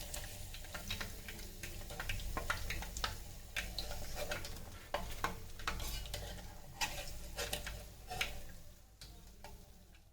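Paneer cubes frying in hot oil in an electric kettle, a steady sizzle with repeated clicks and taps of a utensil against the pot. The sizzle dies down near the end.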